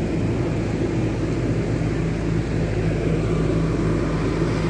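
Diesel generator sets on a truck running steadily, a constant low engine hum.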